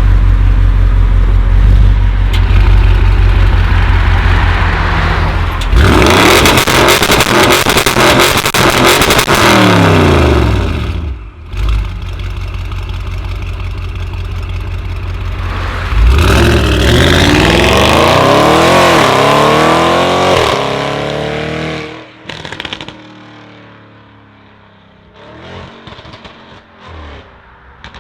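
Remapped Audi RS6 Avant C7's twin-turbo V8 through a Milltek exhaust: a loud steady engine note, then a hard burst of throttle about six seconds in with rapid crackling and the engine pitch falling away. A second loud run comes about sixteen seconds in, the pitch climbing and falling several times, before the sound drops off sharply near the end.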